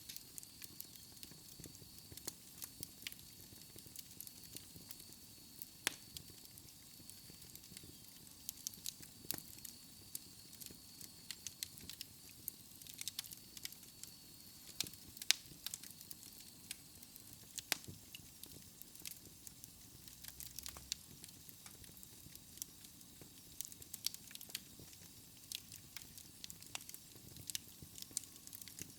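Wood fire burning in a fireplace: irregular sharp crackles and pops over a faint steady hiss.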